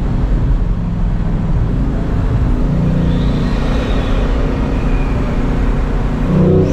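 Bugatti Mistral's 8.0-litre quad-turbocharged W16 engine running steadily while driving, over road noise, swelling louder briefly near the end.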